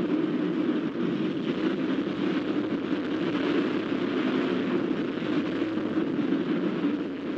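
A loud engine running steadily.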